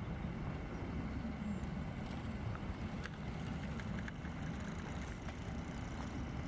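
A steady low outdoor rumble, with a few faint clicks.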